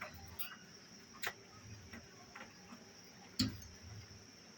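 A few scattered sharp clicks and taps, the loudest about three and a half seconds in, over a faint steady high-pitched cricket chirring.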